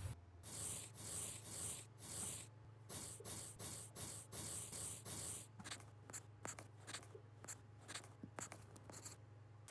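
Repeated short scraping or rubbing strokes, about two a second, giving way to quicker, lighter clicks in the second half, over a low steady hum.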